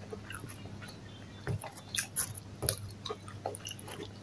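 A person chewing a mouthful of food close to the microphone: soft wet smacks and small clicks, a few louder ones in the middle, over a faint low hum.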